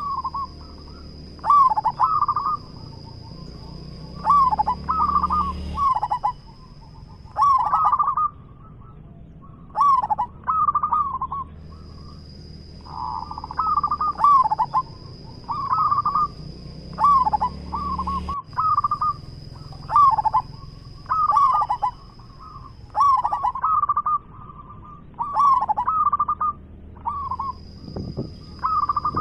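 Zebra dove singing: short phrases of quick cooing notes, repeated every second or two. A steady high whine runs behind it and drops out for a few seconds twice.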